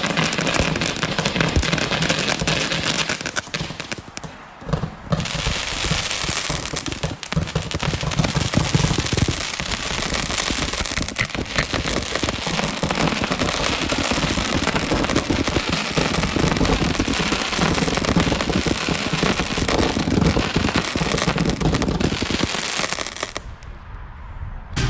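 Consumer fireworks firing in rapid succession: dense, continuous shots and crackling, with a brief lull about four seconds in, cutting off shortly before the end.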